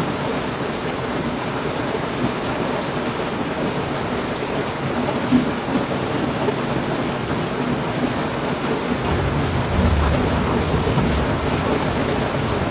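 Heavy rain falling steadily, with a low rumble building about nine seconds in.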